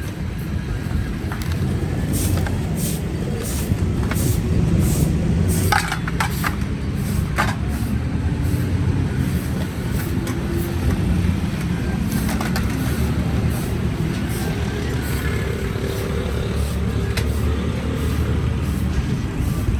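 Busy street noise: vehicle engines running steadily with indistinct voices, and a few sharp knocks about six and seven seconds in.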